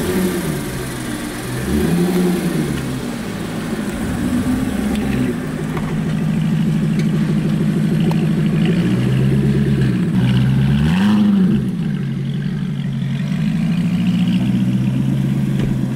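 Aston Martin Vantage engine running at low speed, blipped up twice, about 2 seconds in and again about 11 seconds in, and settling back to a steady idle between.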